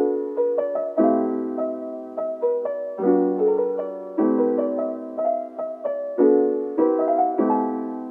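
Background music: a slow, gentle piano piece, chords struck about once a second and left to fade.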